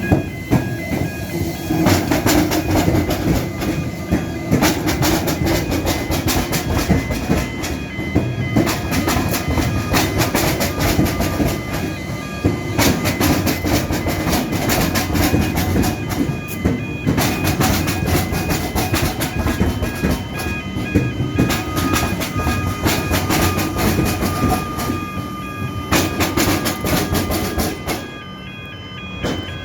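Electric suburban train passing over the railway–tramway crossing, its wheels clattering over the crossing in a long run of sharp clicks, with the level-crossing bells ringing alongside. The passing dies away sharply near the end.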